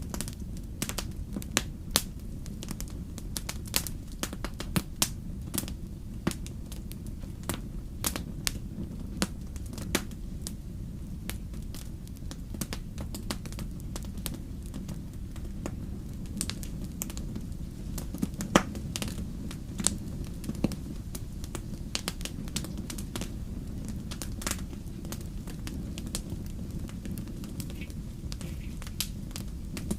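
Fire crackling: frequent irregular pops and snaps, a few sharper ones, over a steady low rumble.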